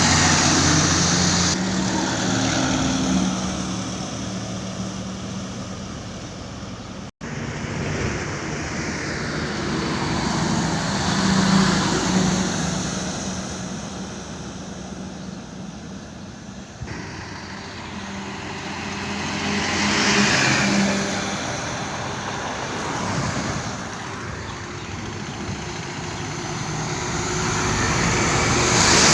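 Trucks driving past on a road, their engine hum and tyre noise swelling and fading as each one passes, three or four times. The sound cuts out for an instant about seven seconds in.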